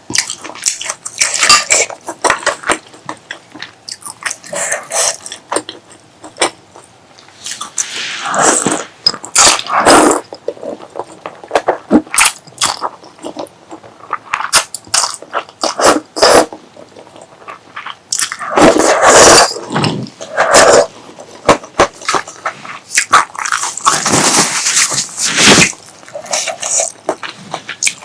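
Close-miked eating sounds: wet chewing and biting with many sharp crackles, and three longer, louder noisy stretches of mouth sounds.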